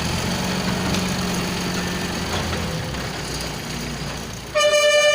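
A truck's engine running steadily, then a short, loud horn blast near the end.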